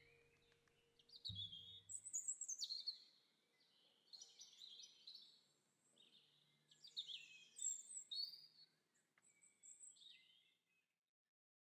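Faint songbird song outdoors: a series of short, quick chirped phrases repeated every second or so, trailing off near the end.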